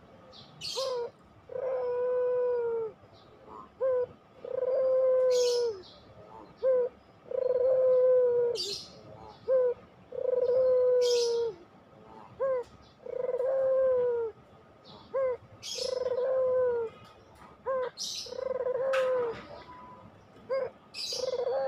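Puter pelung, a domestic Barbary dove, cooing over and over: each phrase is a short note followed by a long coo that drops slightly at its end, repeating about every two and a half seconds. A brief high, sharp chirp opens most phrases.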